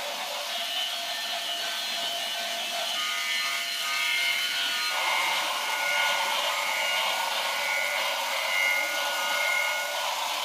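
Battery-powered toy trains running, their small electric motors and gears giving a steady whir with several thin high tones.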